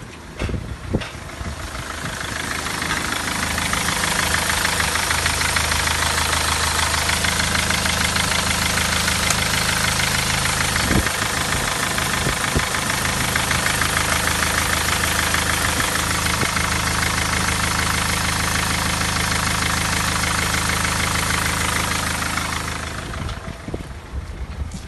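Mercedes-Benz OM646 2.2 CDI four-cylinder common-rail diesel idling with steady diesel clatter during an engine test. It builds up over the first few seconds and stops near the end.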